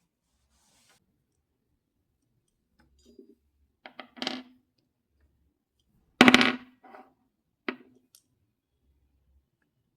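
Household objects being handled and set down: a few scattered knocks and clatters, the loudest a ringing clunk about six seconds in.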